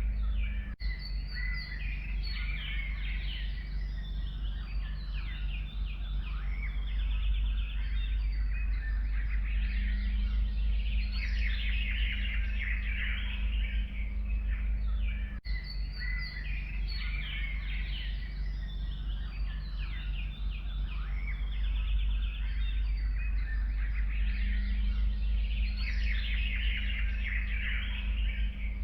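Several forest birds singing and chirping together in a dense, overlapping chorus, over a steady low rumble. The same stretch of about fifteen seconds of birdsong plays twice, as a loop.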